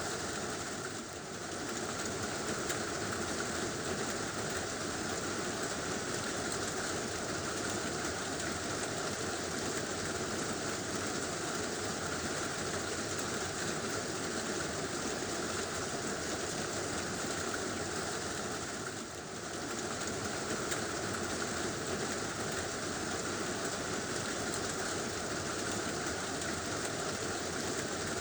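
Heavy rain drumming steadily on a tin roof, a dense even hiss that dips briefly twice, about a second in and about two-thirds of the way through.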